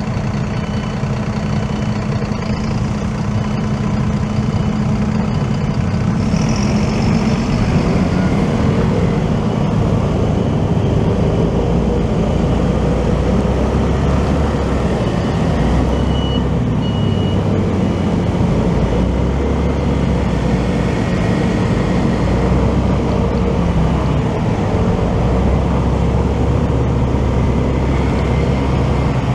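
Motorcycle engine and road traffic heard from the rider's seat. A steady engine hum for the first few seconds gives way to louder running with road noise from about six seconds in.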